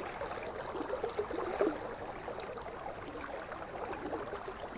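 River water running past, a steady rushing with small irregular gurgles.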